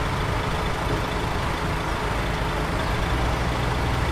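Heavy diesel earthmoving machinery running steadily, a continuous low engine drone with mechanical noise over it.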